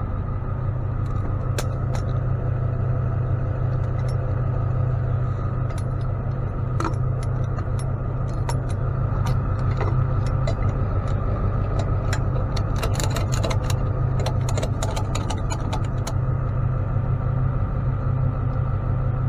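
A truck engine running steadily with a deep even drone. Scattered short metallic clicks and rattles come through it, bunching up thickly about twelve to sixteen seconds in.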